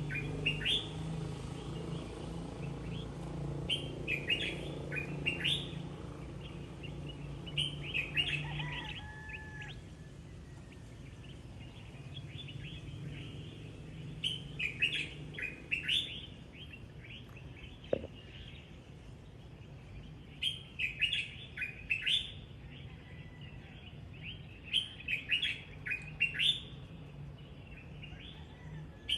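Birds chirping in short clusters of quick, high chirps, a burst every few seconds. A low steady hum runs underneath for the first nine seconds or so, then fades.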